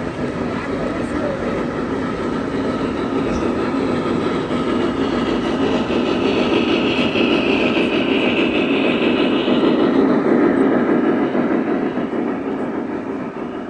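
Model train running past on a layout, its wheels rumbling on the track, getting louder up to about ten seconds in and then fading.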